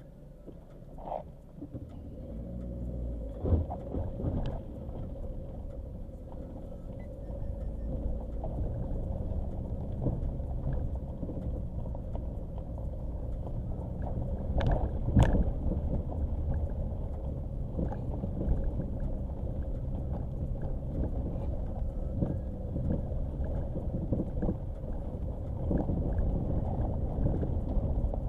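Nissan Qashqai driving slowly over a rough dirt track: a steady low engine and tyre rumble, with scattered knocks and jolts from the bumpy ground, the loudest about fifteen seconds in.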